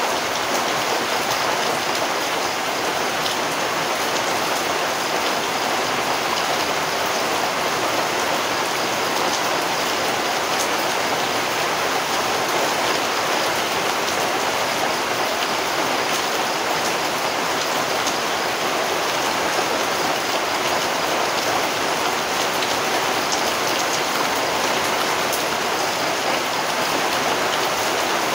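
Rain falling steadily: an even hiss with scattered individual drop ticks.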